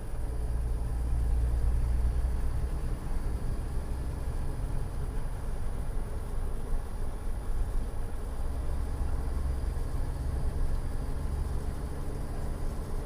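1948 Studebaker M5 pickup's Champion 169-cubic-inch flathead six running steadily at a low pitch as the truck is driven, heard from inside the cab.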